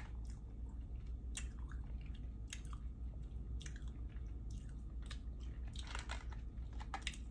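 A person chewing sour candy, faint, with soft chewing clicks about once a second.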